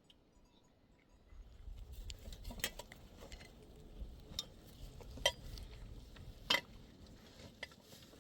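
A few sharp clicks and knocks, like small hard objects striking one another, over a low rumble that starts about a second in.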